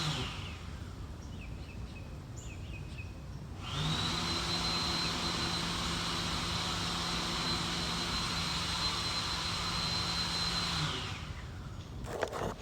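Electric hand dryer blowing, a steady rush of air with a high whine and a low hum. It cuts out right at the start, starts again about four seconds in, and runs for about seven seconds before stopping.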